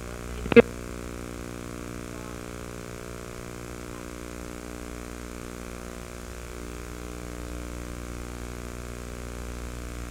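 A steady, even hum with many evenly spaced tones over faint hiss, broken by one sharp click about half a second in.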